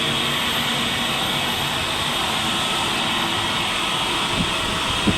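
Steady, even rushing noise of jet airliner engines running, with a small click near the end.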